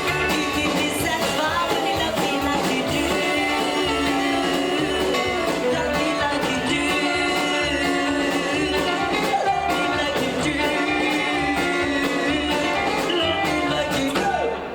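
Live rockabilly band playing a song with a steady beat, electric guitar and a singer; the song ends abruptly near the end.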